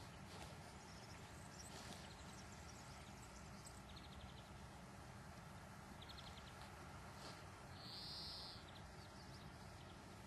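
Near silence: faint outdoor background with a few short, faint bird twitters, about four and six seconds in and again near eight seconds.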